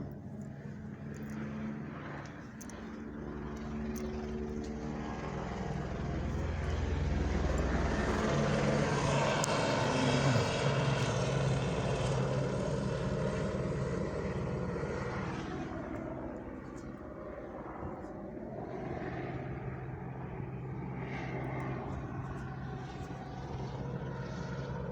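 Police helicopter flying low overhead, its rotor and engine drone growing louder to a peak about ten seconds in, then easing off.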